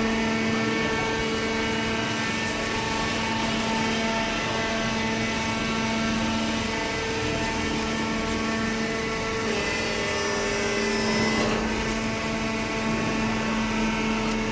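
Automatic horizontal cardboard baler running under power, its hydraulic power unit giving a steady, even hum, with some extra machine noise joining in about two-thirds of the way through.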